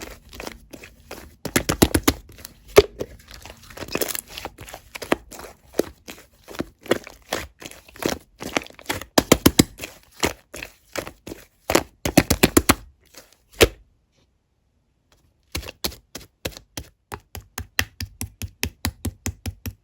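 Clear slime being squeezed and pressed by hand, making rapid sticky clicks and pops in clusters. After a short pause near the middle, the clicks come in a quick, steady run of about four or five a second.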